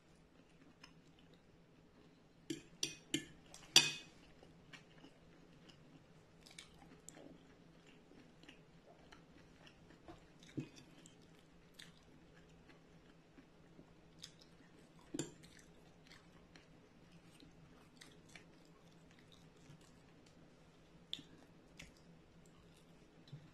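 Close-up eating sounds: a person chewing pieces of fried tofu, with soft mouth sounds throughout. A metal fork clicks sharply against a ceramic plate four times in quick succession about three seconds in, with lighter clicks scattered after.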